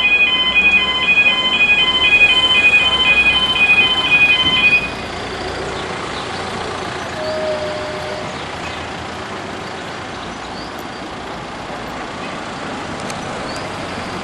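Level crossing warning alarm sounding in a rapid two-tone warble, then cutting off abruptly about five seconds in. Steady road traffic noise follows.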